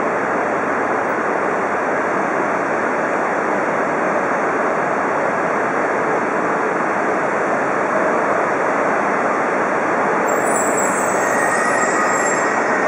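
E3-series shinkansen creeping slowly along the platform toward a coupling, its running gear and equipment making a steady hiss and rumble. A faint high-pitched squeal comes in near the end.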